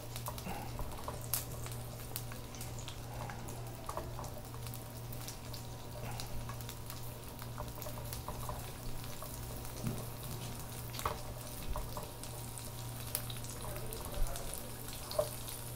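Garlic frying in oil in a frying pan: a light, steady sizzle with scattered small crackles and pops. A steady low hum runs underneath.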